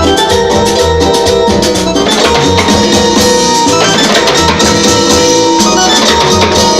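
A live tropical dance band playing an instrumental passage of a rumba/son number through an amplified sound system. There is a steady percussion beat, a strong bass line and sustained melody tones.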